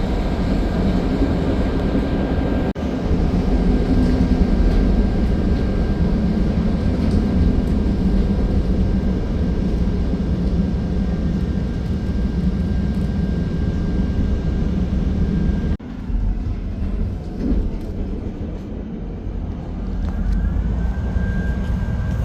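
CTA Yellow Line rapid-transit train running, heard from inside the car: a steady low rumble with a thin, steady whine above it. The sound drops out abruptly twice, and it is quieter over the last few seconds as the train nears Oakton station.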